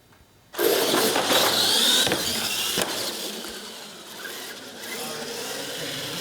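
Radio-controlled scale monster trucks launching off the line in a drag race: a sudden loud start about half a second in, with motor whine rising in pitch as they accelerate down the track, then carrying on a little quieter.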